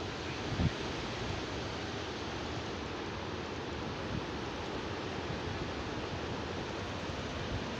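Steady hiss of wind-driven rain from a hurricane rain band, with a wind gust buffeting the microphone about half a second in.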